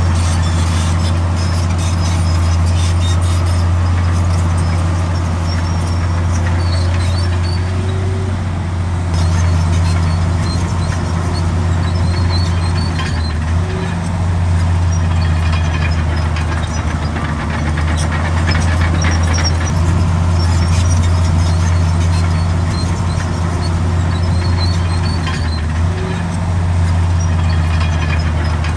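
Komatsu D65 bulldozer's diesel engine running steadily under load, a deep constant hum, with short high squeaks and clanks from its steel tracks scattered throughout.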